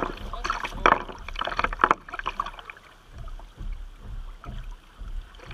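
Kayak paddle strokes splashing in river water, several in the first two seconds, then quieter water around the boat.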